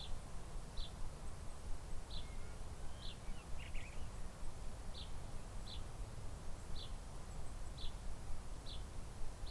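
A small bird repeating a short high call about once a second, with a brief cluster of notes about three and a half seconds in, over a steady low wind rumble.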